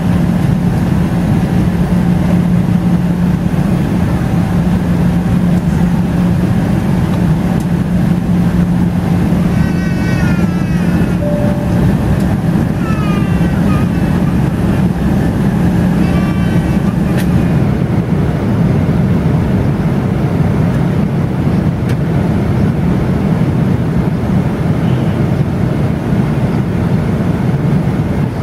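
Boeing 777-300ER in flight: the steady rush of its GE90 jet engines and airflow, with a low hum that fades about twelve seconds in. A few brief, faint voices and a single click come through the noise.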